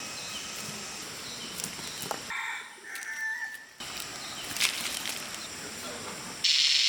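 Chickens and other birds calling, with wing flaps, in several short abrupt cuts. A loud steady hiss cuts in near the end.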